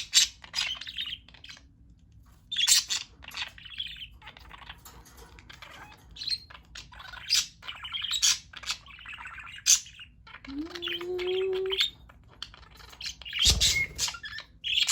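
Pet budgerigars chirping and chattering in short bursts of high chirps. A low tone rises and holds briefly in the second half, and a single thump comes near the end.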